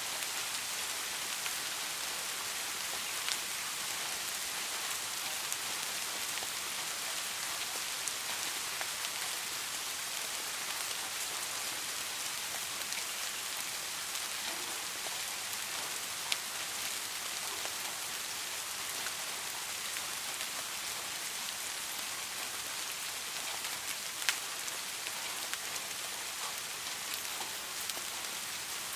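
Steady rain falling: an even hiss of many drops, with a few louder single drop clicks here and there.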